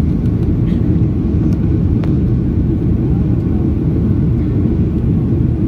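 Steady low rumble of a Boeing 737-800's CFM56-7B jet engines and airflow, heard inside the passenger cabin during the climb after takeoff.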